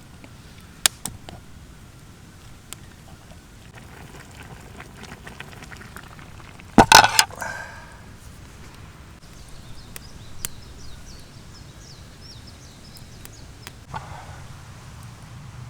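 A few sharp knocks over a quiet outdoor background: a light click about a second in, one loud knock with a short ringing tail about seven seconds in, and a softer one near the end.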